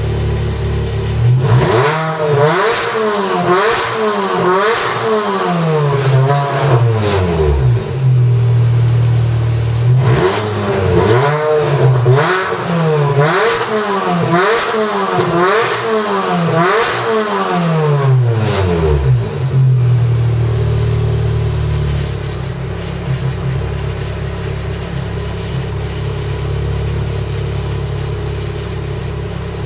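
Supercharged four-cylinder engine of an R53 Mini Cooper S, heard through a DuelL AG aftermarket exhaust, revved up and down over and over in two long spells of quickly rising and falling pitch. After the second spell it settles to a steady idle.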